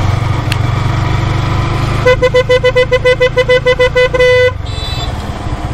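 A newly fitted vehicle horn sounded in a rapid string of short toots, about five a second for two seconds, ending on one slightly longer blast. The vehicle's engine runs underneath.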